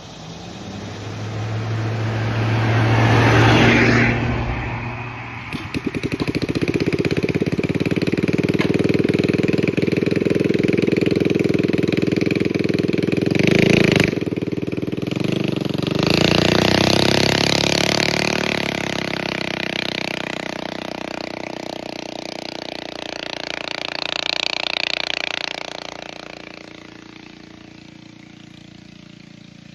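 Minibike's small engine, freshly jetted with a 120 main jet and 48 pilot jet, revving up and then running under throttle, with a short break in the note about halfway through and fading near the end. The owner says it is running real good on this jetting.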